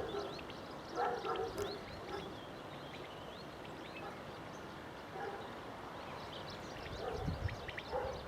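Small birds chirping repeatedly against a quiet outdoor background, with a few short, louder calls about a second in and again near the end.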